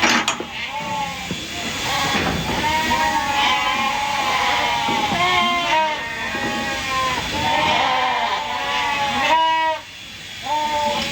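Several sheep bleating over one another, one call after another overlapping, with a single sharp knock just after the start and a brief lull near the end.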